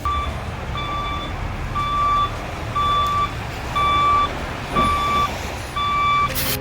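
A vehicle's reversing alarm beeping steadily about once a second, over the low rumble of its engine.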